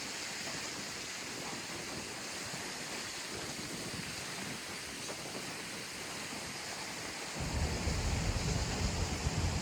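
Steady rushing splash of the Ross Fountain's falling water. From about seven seconds in, a low rumble of wind on the microphone joins it.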